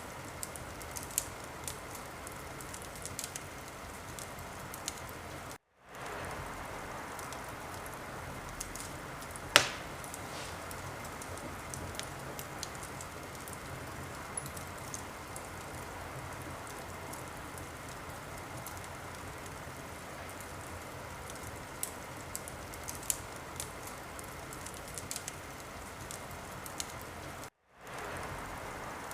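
Wood fire burning in a fireplace: a steady hiss with scattered sharp crackles and one loud pop nearly ten seconds in. The sound cuts out for a split second twice, about six seconds in and near the end.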